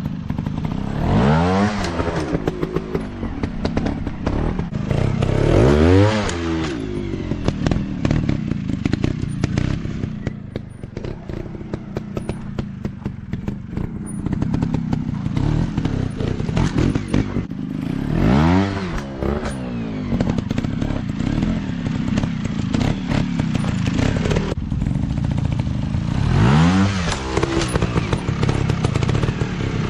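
Dirt-bike engines running, with four swells where an engine's pitch climbs and falls again, at about a second in, six seconds in, eighteen seconds in and near the end.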